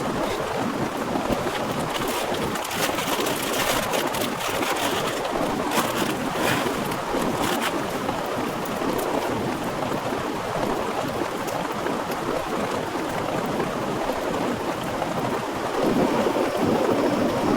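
Heavy, torrential rain pouring down steadily, with sharp patter of drops striking close by. A louder, deeper swell comes in near the end.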